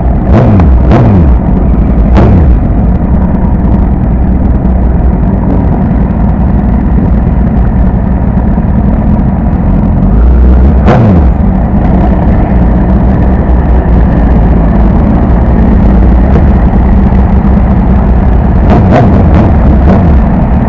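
Motorcycle riding at speed, its engine running under heavy wind rumble on the camera microphone. Several brief sharp sounds with a quickly falling pitch break in: a few in the first two seconds, one about eleven seconds in and a pair near the end.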